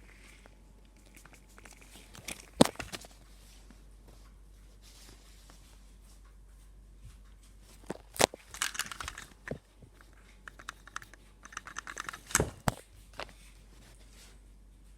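Handling noises: three sharp knocks or clicks, about two and a half, eight and twelve seconds in, the first the loudest, with short bursts of rattling and rustling between them.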